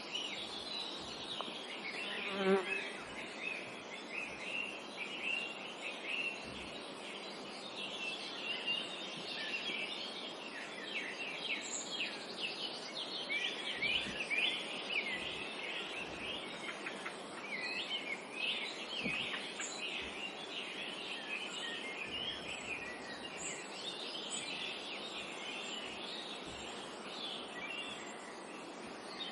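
A chorus of small birds chirping, many short high calls overlapping over a faint steady background hiss.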